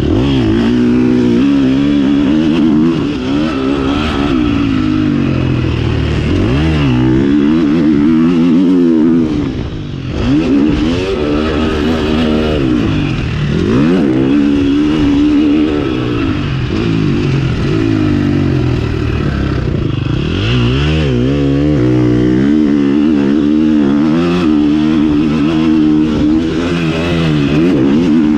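A KTM 350 SX-F motocross bike's four-stroke single-cylinder engine running hard under load. It revs up and falls off again and again, and the throttle briefly closes about ten seconds in.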